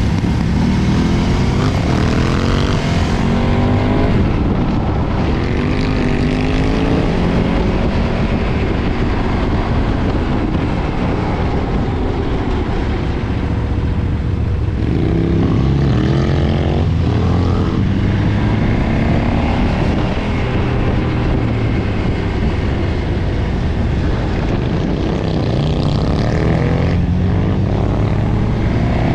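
2013 KTM 990's V-twin engine through its stock exhaust, accelerating through the gears several times: the revs rise, then drop at each shift.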